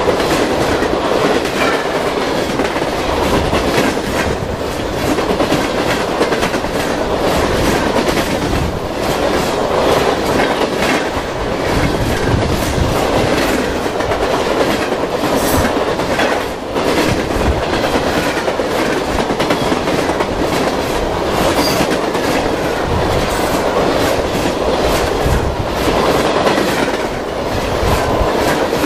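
A long freight train rolling past at speed, its cars' wheels clicking steadily over the rail joints.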